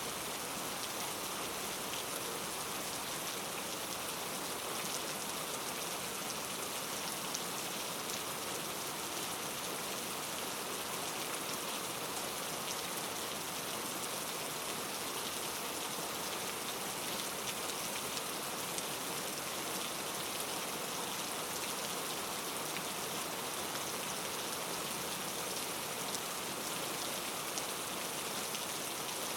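Steady rainfall: an even hiss of rain with fine drop patter on a surface, unchanging throughout.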